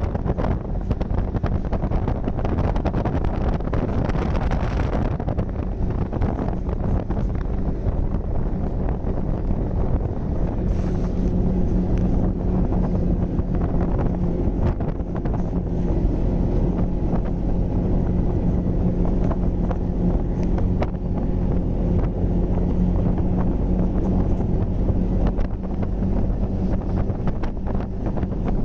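Snowmobile engine running steadily while riding, with wind buffeting the microphone. Its low hum grows stronger about ten seconds in.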